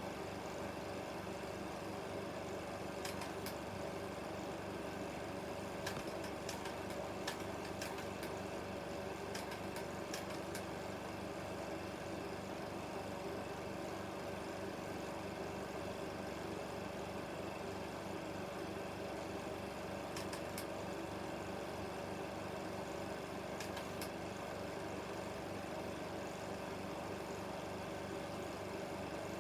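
16mm film projector running: a steady mechanical whirr with a fast, even flutter and a few scattered clicks.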